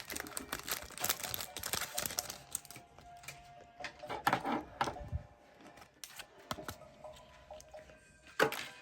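Pokémon trading cards being handled and flipped through: a run of light clicks and taps. It is busiest for the first three seconds, then thins out, with one sharper tap near the end.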